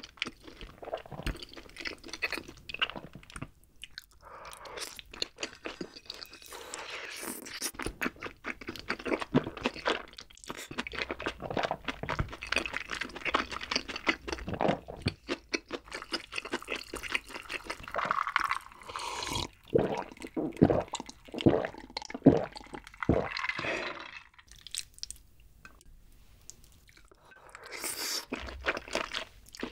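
Close-miked chewing and mouth sounds of someone eating rosé tteokbokki (rice cakes and fish cake in a creamy spicy sauce). Near the end comes a short slurp of sauce from a spoon.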